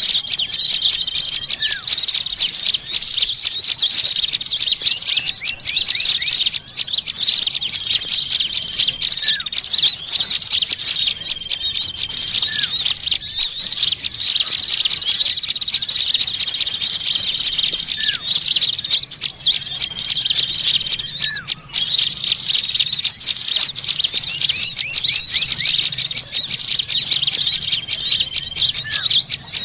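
Bird-lure recording of many small birds chattering and twittering together in a dense, unbroken flock din, with a short rising call every few seconds and a recurring level whistle beneath it.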